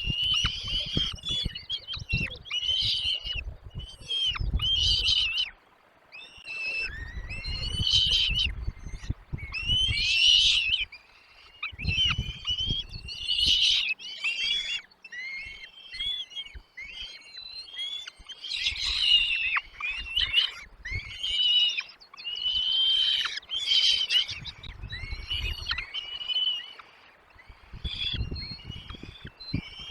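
Small birds at a nest, most likely chicks begging, calling in a continuous run of high chirps and short sweeping calls. Bursts of low rumble come and go underneath.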